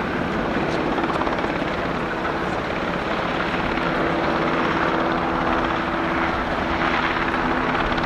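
UH-60J helicopter in flight: steady rotor and turbine engine noise with a low hum running through it.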